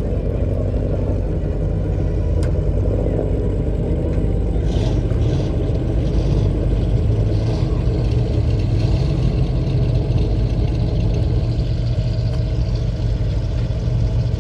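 A car engine running steadily with a deep, even drone.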